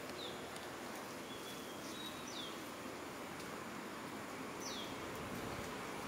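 Several short, high bird chirps, most of them falling in pitch: a few in the first two and a half seconds and one more near five seconds. They sit over a steady outdoor hiss of background noise.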